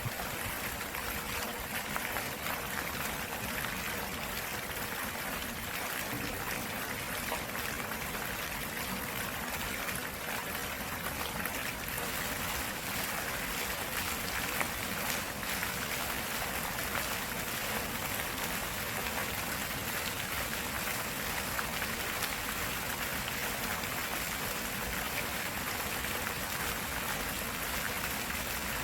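Water of a flowing stream running steadily.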